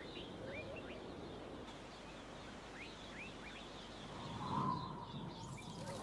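Faint outdoor ambience: a soft, even hiss with a scattering of short, high bird chirps. A brief, slightly louder and lower sound comes about four and a half seconds in.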